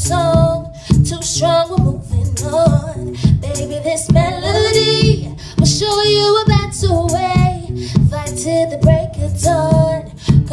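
Female voices singing a pop/R&B song live over a band, with a steady drum beat and bass.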